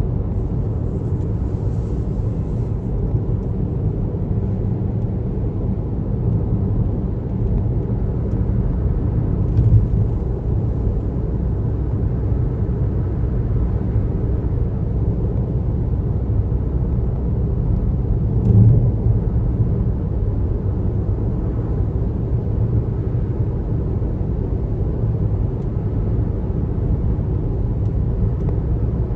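Car driving at steady highway speed: a constant low rumble of tyre and road noise, with two brief louder bumps, about ten seconds and about eighteen seconds in.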